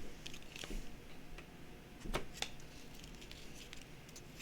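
Faint clicks and taps of silver coins and their packaging being handled, the sharpest click a little past two seconds in.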